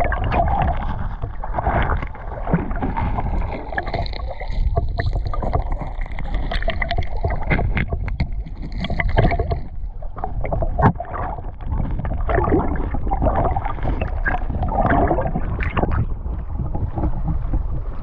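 Water splashing and sloshing over a steady low rumble, with many irregular sharp clicks and knocks scattered through it.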